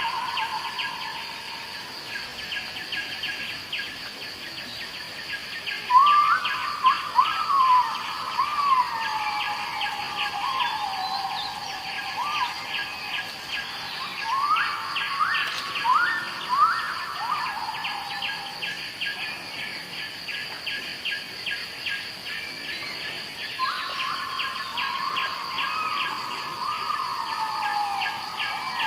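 Jungle ambience: a bird sings bouts of clear whistled notes that each jump up and slide down in pitch, a few seconds in, midway and near the end. Under it runs a steady high chorus of insects with a fast pulsing trill.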